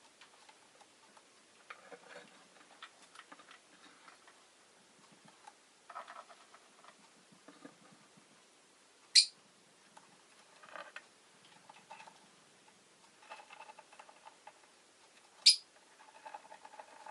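Peach-faced lovebird making soft, scratchy chattering sounds, broken twice by a short, loud, high-pitched call, about six seconds apart.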